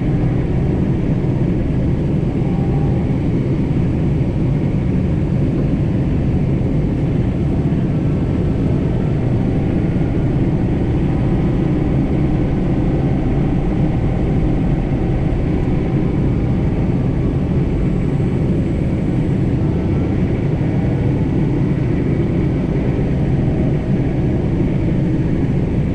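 John Deere 4066R compact tractor's diesel engine running steadily under load while back-dragging snow.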